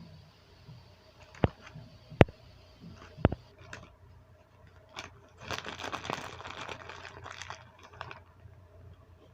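Three sharp clicks in the first few seconds, then about three seconds of plastic food packaging crinkling and rustling while snack plates are put together.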